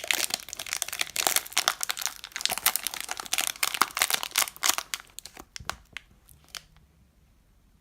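Wrapper of a 2016 Donruss Optic jumbo card pack crinkling as it is handled. The crinkling is dense for about five seconds, then thins to a few crackles.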